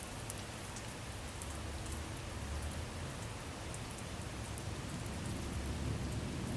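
Steady rain falling, an even hiss with scattered drop ticks and a faint low rumble underneath.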